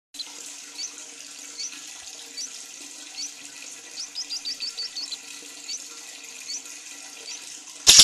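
Short, rising chirps of a small bird, about one a second with a quick run of six or seven in the middle, over a steady rushing noise. A sudden loud burst of sound comes right at the end.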